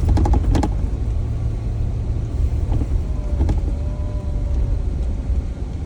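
A Jeep's engine and drivetrain rumbling steadily, heard from inside the cabin, with a quick run of clicks or rattles right at the start.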